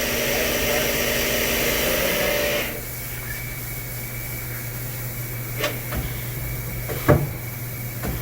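Live tool on the turret of a Miyano BNE-64SY2 CNC turning centre, a dual cross drill mill tool, spinning at about 1,000 RPM with a steady whir and whine. It cuts off abruptly about two and a half seconds in. After that the machine's quieter steady hum remains, with a few sharp clicks.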